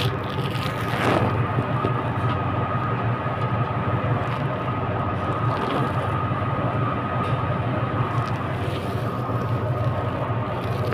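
Train running: a steady low rumble with a constant high whine over it.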